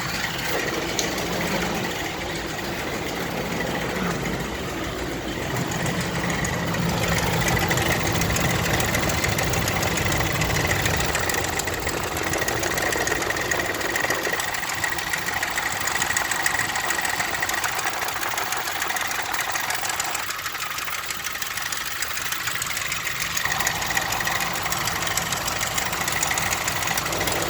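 2000 Ford Expedition's 4.6L V8 engine running with its mystery noise, a steady high whine over the engine sound. The owner believes it comes from the belt side, perhaps the pulley tensioner, though he also wonders about a flat rocker.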